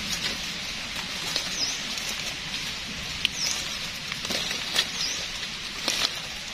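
Forest ambience: a bird gives a short, high, dipping chirp three times, a second or two apart, over a steady high hiss. A few sharp clicks and crackles come in the second half.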